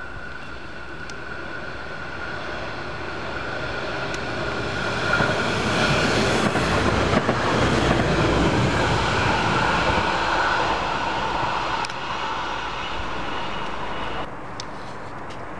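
Diesel railcar approaching and passing beneath, its engine and wheels on the rails growing louder, loudest about six to ten seconds in, then fading; a steady whine runs through the approach. The sound drops suddenly near the end.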